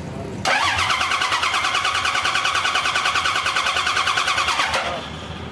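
Starter cranking the rebuilt engine of a half-century-old Toyota forklift, a high whine pulsing about nine times a second, without the engine catching. It starts suddenly about half a second in and cuts off shortly before the end.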